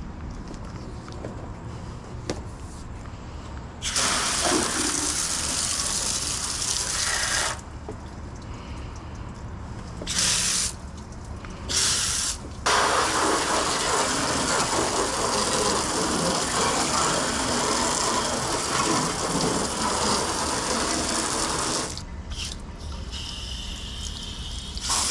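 Garden hose spraying water onto a car's engine bay, rinsing it down. It comes in bursts: one of a few seconds, two short blasts, then a long steady spray of about nine seconds.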